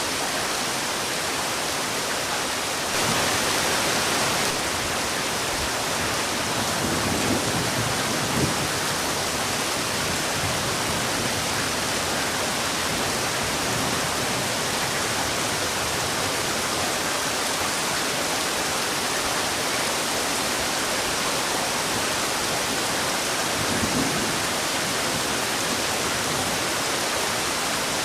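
Heavy rain falling steadily as a dense, even hiss. It swells briefly louder about three seconds in, and a few faint low knocks come through around eight seconds in and again near the end.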